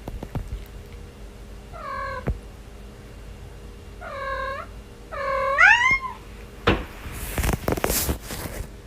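Domestic cat meowing three times, short calls a couple of seconds apart, the third longer and rising then falling in pitch. Near the end come a few seconds of rustling and scuffling noise.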